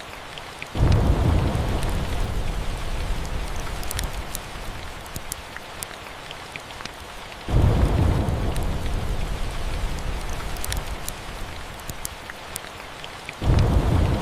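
Steady rain with three rolls of thunder, each starting suddenly about six seconds apart and rumbling on as it slowly fades. Scattered sharp crackles from a fireplace.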